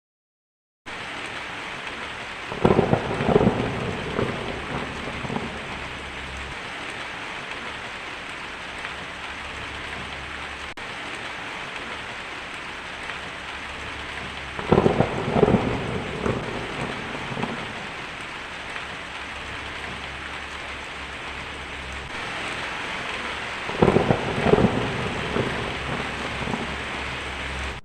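Steady heavy rain with three rolls of thunder, each rumbling for a couple of seconds. The rain starts suddenly about a second in and cuts off abruptly at the end.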